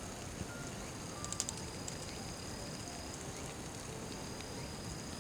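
Campfire burning with a soft steady hiss and a few crackling pops about a second in, with a thin, steady high tone that comes and goes over it.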